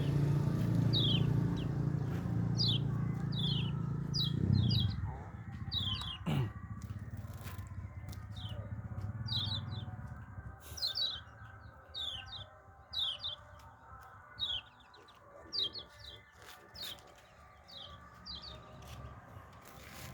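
Kecial kuning, a small white-eye, giving short high chirps that slide downward in pitch, singly or in quick pairs, over and over. A low hum runs underneath for the first five seconds.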